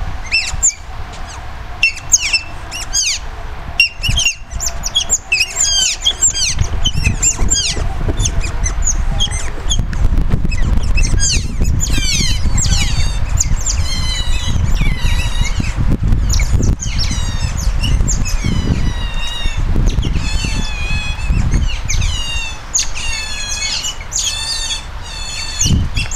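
Group of Asian small-clawed otters making a constant chorus of high-pitched squeaks and chirps, the begging calls of otters waiting for food; the calls become longer and warbling about halfway through. A low rumble runs underneath from about six seconds in.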